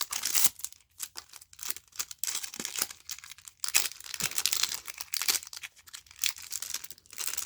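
Plastic wrapper of a Magic: The Gathering set booster pack crinkling and rustling in irregular crackly bursts as it is torn and handled to get the cards out.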